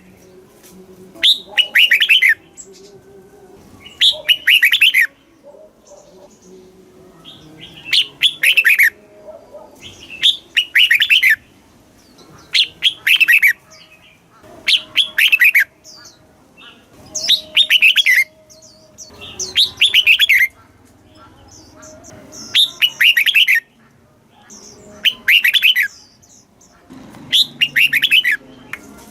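Red-whiskered bulbul singing: a short, loud phrase of quick falling notes, repeated about every two to three seconds with short pauses between.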